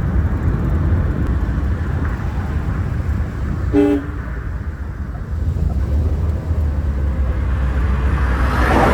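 Car on the road, with a steady low rumble of engine and tyres; a short horn toot sounds about four seconds in. Near the end a rushing noise swells.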